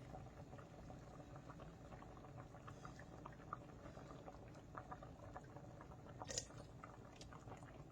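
Near silence: room tone with faint scattered ticks and one brief, slightly sharper sound about six seconds in.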